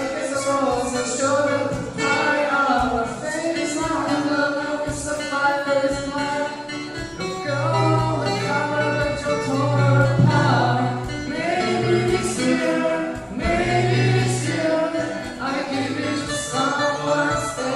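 A group of voices singing a song together over guitar accompaniment.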